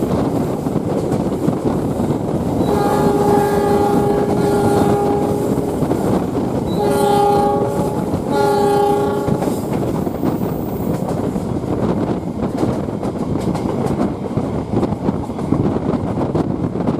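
Train horn sounding one long blast about three seconds in, then two shorter blasts close together, over the steady rumble and rail clatter of the moving train.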